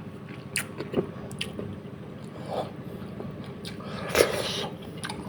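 Close-up mouth sounds of eating soft, fatty fish head: wet chewing, smacking and small clicks, with one louder wet sound about four seconds in.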